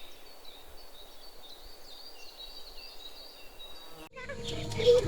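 Rural outdoor ambience: a faint steady hiss with high, wavering chirping calls over it. About four seconds in it cuts off sharply and gives way to louder music and a voice.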